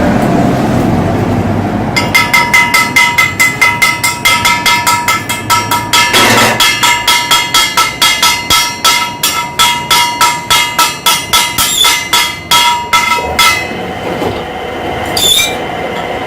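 A hammer striking ringing metal in rapid, even blows, about four a second, from about two seconds in until near the end, each blow leaving a bell-like metallic ring.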